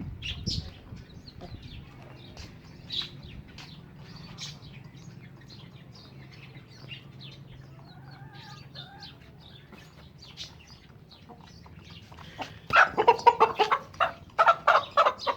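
Chickens clucking: faint, scattered short clucks for most of it, then loud, rapid, repeated clucking from a hen starting near the end.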